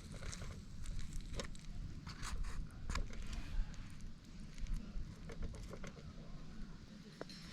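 Wood fire in a small steel fire pit crackling, with irregular sharp clicks and a few short scrapes over a low steady rumble.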